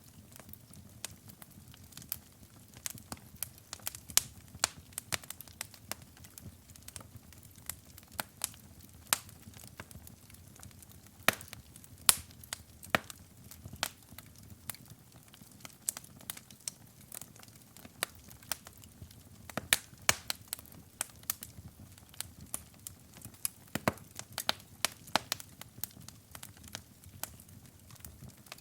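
Wood fire burning in a fireplace, crackling with irregular sharp pops and snaps over a soft low rumble of the flames. A few pops stand out louder than the rest.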